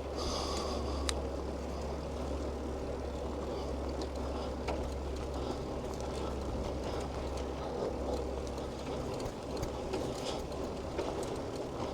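Steady rumbling noise of riding a bicycle through city streets: wind and road noise, with a few faint clicks.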